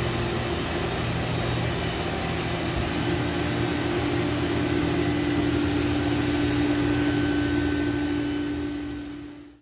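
A steady machine hum with a few held tones, one of them growing stronger from about three seconds in, fading out near the end.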